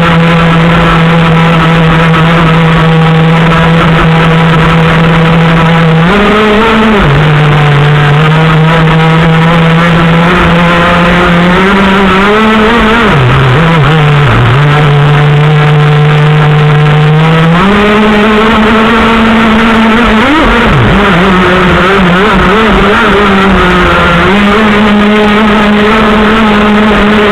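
Small RC model engine running loudly, holding a steady buzzing pitch that steps up and down several times as the throttle is changed, with brief dips and wobbles in engine speed.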